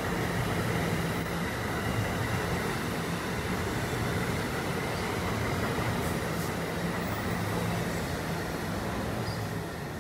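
NJ Transit multilevel commuter train passing through without stopping: steady rumble and rush of the cars' wheels on the rails, with a steady hum, easing off slightly near the end as the last car goes by.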